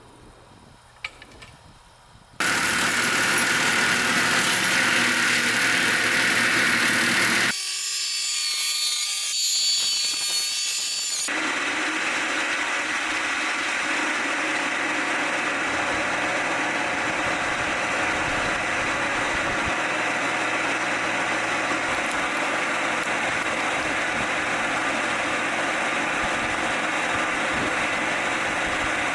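Powered machinery running steadily and loudly. It starts abruptly a couple of seconds in and changes abruptly twice: a stretch of high-pitched steady whine with little low end, then a fuller steady running noise.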